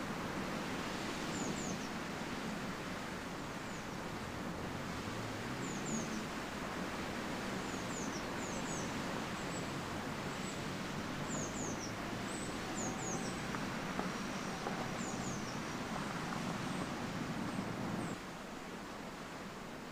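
Outdoor ambience: a steady rushing background with small birds giving short, high, falling chirps every second or so. The background drops a little in level near the end.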